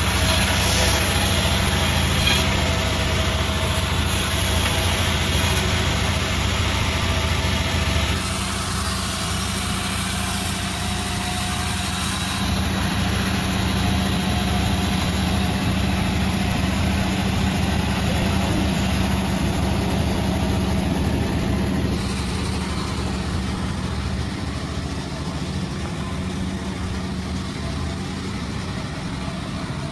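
A 36-blade gang sawmill running steadily as a loud machine drone mixed with a high-pitched noise. The sound shifts and gets a little quieter about eight seconds in and again past the middle.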